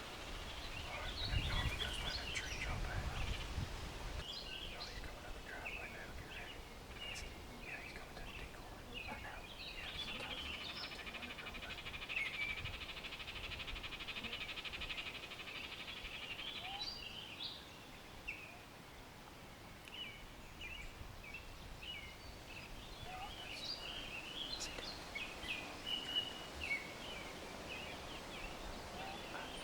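Songbirds chirping and calling, with many short calls throughout and a long, even trill from about ten seconds in that lasts some seven seconds. A low rumble, likely wind on the microphone, sits under the first few seconds.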